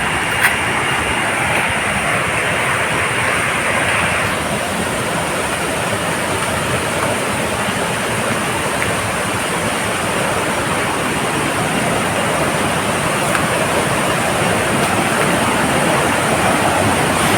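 Waterfall pouring: a steady rush of falling water that grows slightly louder near the end.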